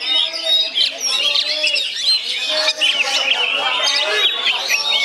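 Oriental magpie-robin (kacer) singing a continuous, varied song of loud whistles, chirps and quick trills with no pauses.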